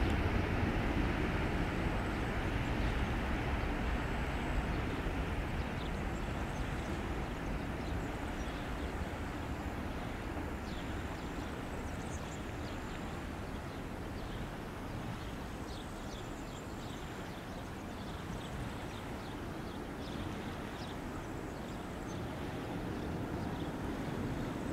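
Boeing 737-800's CFM56-7B jet engines at takeoff power, a broad rumble that slowly fades as the aircraft climbs away, with faint high chirps in the background.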